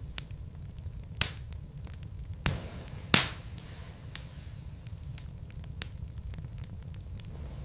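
Wood logs burning in a fireplace: a steady low rumble of the fire with scattered sharp crackles and pops, the loudest a few about a second to three seconds in.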